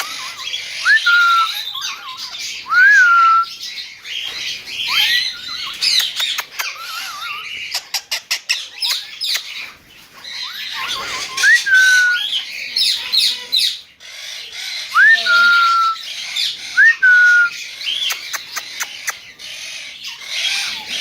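King parrot whistling: a clear whistle that rises quickly, then settles into a held, slightly falling tone, repeated about half a dozen times. Higher-pitched chirps and squawks run between the whistles, with a quick run of clicks in the middle.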